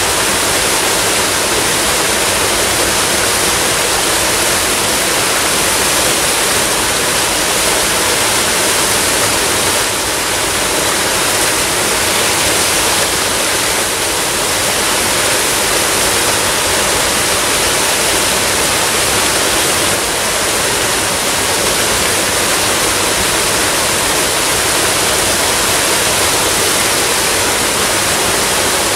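Waterfall: a steady, unbroken rush of falling water, full of hiss, with no pauses or changes.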